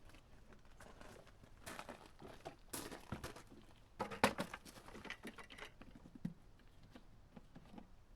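Irregular clicks, knocks and crinkly rustling from handling oil containers while oil is poured back into the excavator, with the loudest knock about four seconds in.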